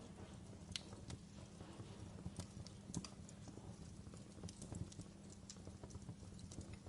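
Wood fire burning in a fireplace: logs crackling with irregular small pops and snaps over a low steady rumble of the flames.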